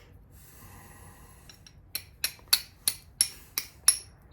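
Steel striker struck repeatedly against flint to throw sparks onto char cloth: a faint rustle, then about eight sharp clicking strikes, roughly three a second, starting about two seconds in.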